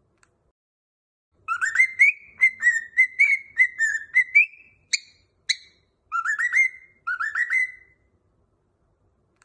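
Cockatiel whistling: a quick run of chirpy rising notes, two short sharp notes, then two brief phrases of rising notes, with pauses between.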